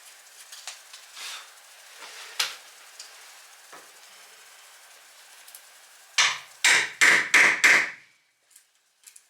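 Small clicks and handling noises, then a hammer tapping five times in quick succession about six seconds in, each blow ringing briefly, while fitting the door lite's frame into the entry door.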